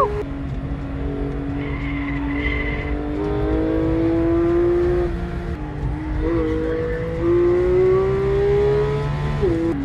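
Porsche 911 GT3's 4.0-litre flat-six engine, heard from inside the cabin on a track lap. Its pitch climbs steadily through each gear and drops at gear changes, with quick rev blips about six and ten seconds in. Tyres squeal briefly about two seconds in.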